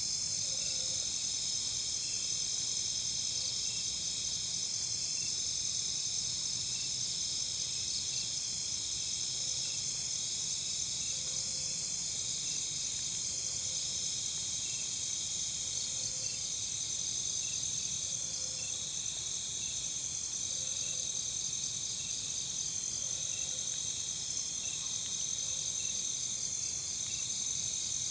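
Chorus of crickets and other insects: a steady, high-pitched trill with several evenly repeating chirps layered over it, about one a second.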